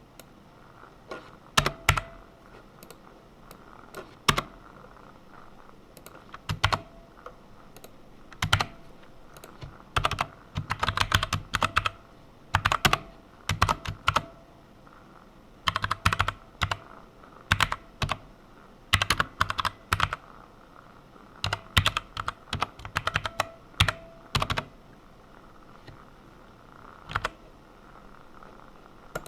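Typing on a computer keyboard: irregular runs of keystrokes separated by short pauses, with the fastest runs around the middle. Near the end the typing thins to a lone click.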